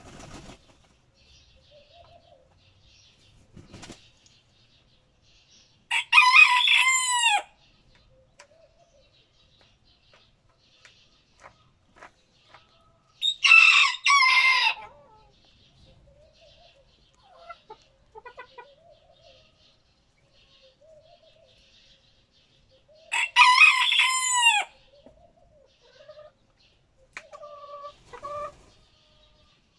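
Roosters crowing in a crowing contest: three loud, long crows several seconds apart, with soft clucking and faint chirping from other birds in between.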